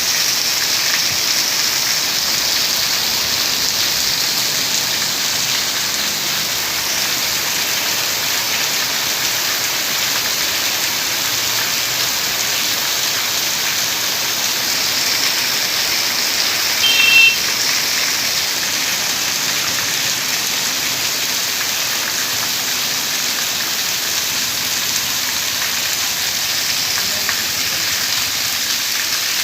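Heavy rain pouring down: a steady hiss of rain falling on hard surfaces. About two-thirds of the way through, a brief high-pitched tone sounds over it.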